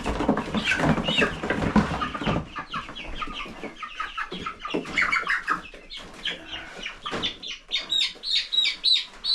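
Young meat-bird chickens clucking and squawking as they are caught by hand from a brooder, with a loud scuffle in the first couple of seconds. Near the end the calls turn into rapid, high distress peeps, two or three a second.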